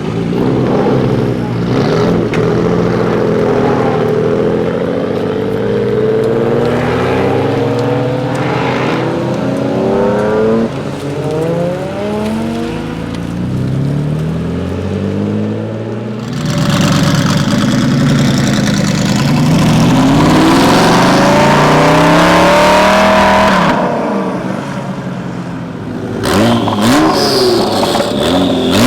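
Performance car engines being revved again and again, their pitch rising and falling with the throttle. About halfway through, a louder, longer burst of hard revving climbs steadily in pitch before dropping away.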